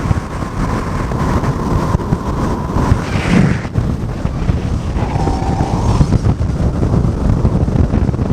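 Heavy wind buffeting on the microphone over the rush of a moving car, as the camera is held out in the airstream.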